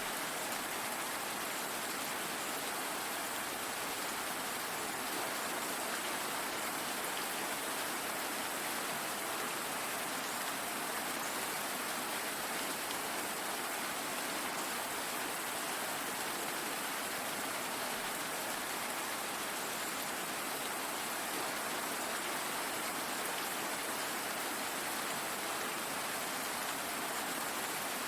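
Steady rain falling, an even hiss that neither rises nor falls, with no single drops or knocks standing out.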